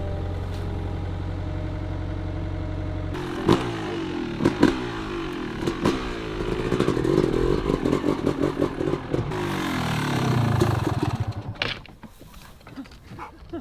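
Dirt bike engine running steadily, then revving up and down with a few sharp clattering knocks. The sound fades out near the end.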